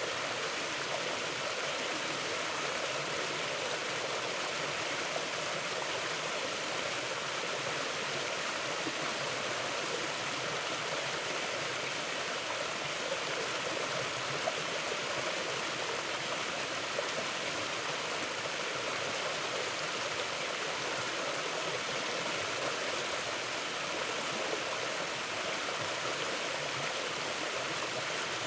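A forest stream flowing steadily over rocks, a continuous even rush of water without change.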